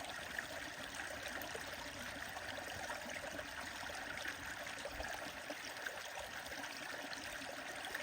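Stream flowing steadily, a continuous babble of running water.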